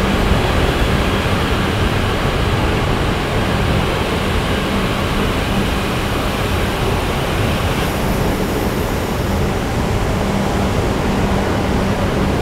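JR East E5-series Shinkansen cars rolling slowly past: a steady rushing rumble with a constant low hum underneath.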